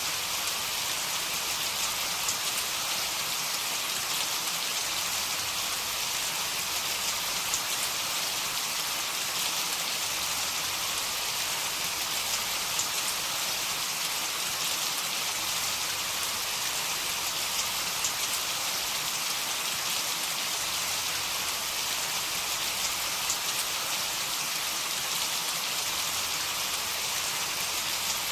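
Heavy rain falling steadily, an even hiss of drops with a few sharper drop ticks scattered through it.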